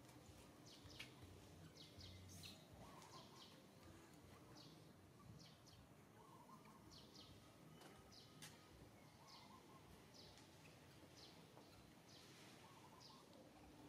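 Faint small birds chirping: scattered short, high chirps over a quiet outdoor hiss.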